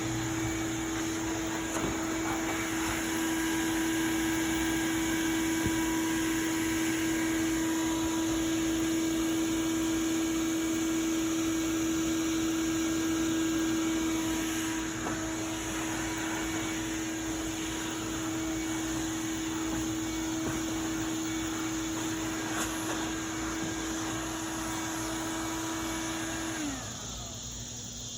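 Electric blower motor running steadily with a constant whine, then switched off near the end, its pitch falling as it winds down.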